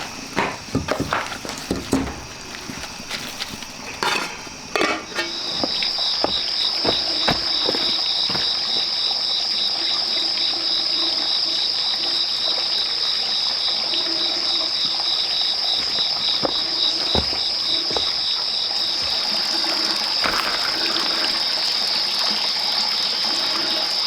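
A few scattered knocks and clicks, then about five seconds in a loud, steady, high-pitched insect chorus starts, with a fast pulsing under its steady tone, and holds.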